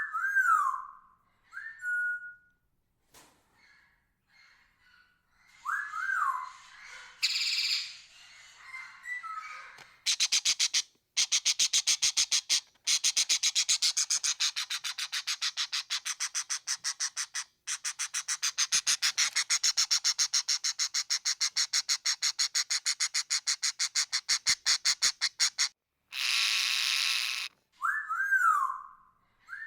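Parrot calls: short whistled notes that rise and fall, then a fast, even rattle lasting about fifteen seconds, then a brief harsh screech, and the whistled notes again near the end.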